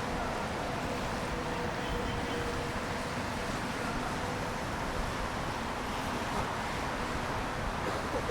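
Steady city street traffic noise, an even continuous rush of vehicles passing on wet roads, with a faint steady hum in the first few seconds.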